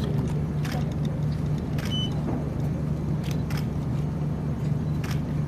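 Steady low hum, with a few faint brief clicks over it.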